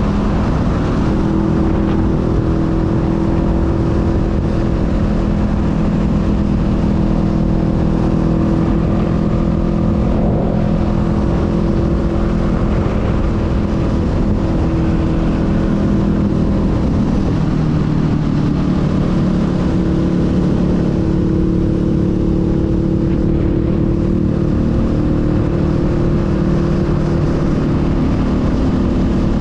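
Honda Rebel 500 parallel-twin engine pulling steadily at road speed. A little past halfway its note drops lower as the revs fall, then climbs again.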